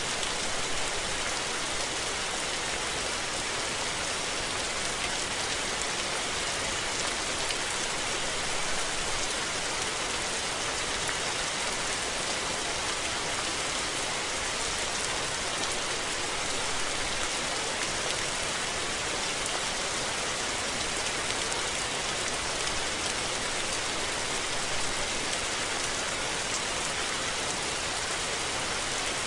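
Steady rain falling, an even hiss of drops on surfaces with faint scattered patters, unchanging throughout.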